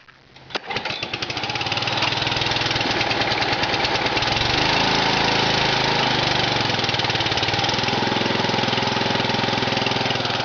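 Briggs & Stratton 6.5 hp Quantum single-cylinder engine starting from cold in freezing weather: it fires a little under a second in, picks up over the next second and settles into a steady run through its custom exhaust.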